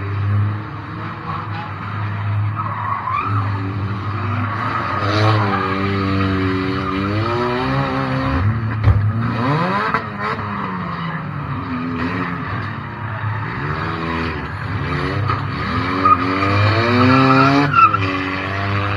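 Heard from inside the car, a banger racing car's engine revving up and down over and over, with a few sharp knocks about halfway through and near the end.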